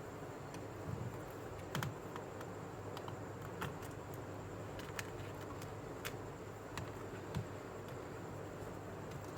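Scattered light clicks and taps, about eight irregularly spaced, from small tools and parts being handled during repair work on a tablet, over a steady low background hum.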